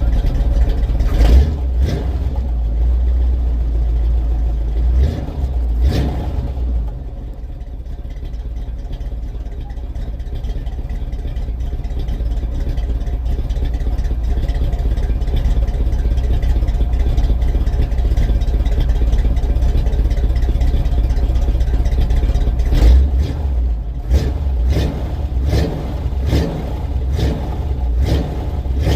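1978 Chevrolet C10 pickup's engine running steadily after its first start in years, on a rebuilt carburetor. It is revved briefly a few times in the first seconds and again repeatedly in the last several seconds.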